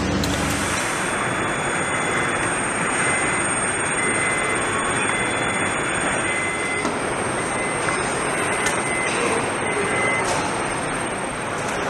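Steady, loud machinery or vehicle noise with a short high beep repeating about once a second from a few seconds in, like a moving vehicle's warning alarm.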